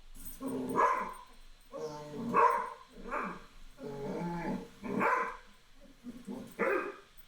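A dog barking and grumbling, about six drawn-out calls one after another.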